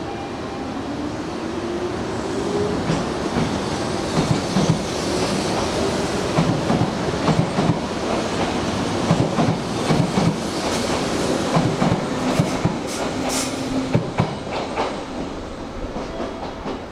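Electric train moving through the station: the motor whine rises in pitch over the first few seconds, then the wheels clatter over the rail joints, the clatter easing off near the end.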